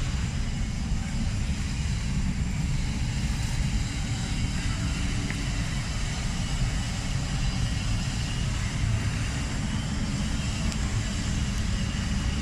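Diesel engine of a Howo 371 HP dump truck running steadily with a low rumble.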